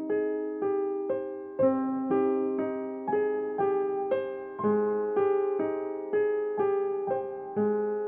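Background music: a soft piano or electric piano playing repeated notes about twice a second, each note fading before the next.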